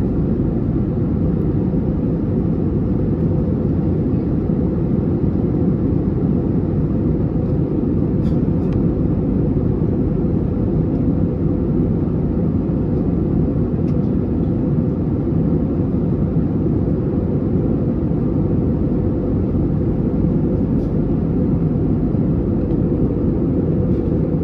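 Airbus A320neo cabin noise in the climb after takeoff: a steady, deep rush of engine and airflow noise heard inside the cabin, with a few faint ticks.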